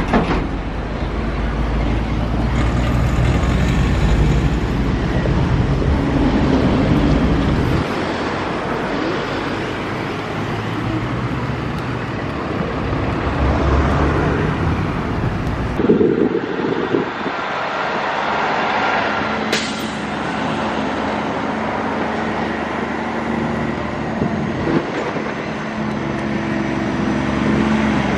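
Road traffic noise: motor vehicles running and passing, a steady rumbling din.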